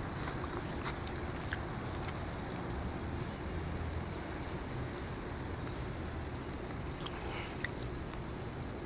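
Outdoor ambience in a snowstorm: a steady low rumble with a hiss above it, and a few faint clicks scattered through.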